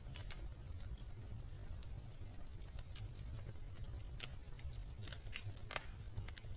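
Wood fire crackling in a fireplace: irregular sharp pops and snaps over a low, steady rumble of the flames, with a few louder snaps in the second half.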